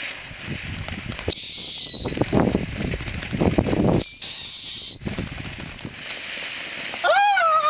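Fireworks going off: continuous crackling bursts, with two high whistles that glide downward, about a second in and again about four seconds in. A short rising-then-falling tone comes near the end.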